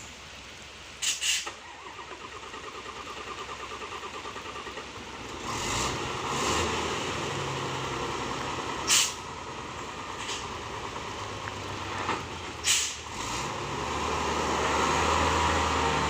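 Truck engine being cranked, a rhythmic pulsing for a few seconds, then catching about five seconds in and running, growing louder toward the end. Several short, sharp hisses of air cut in.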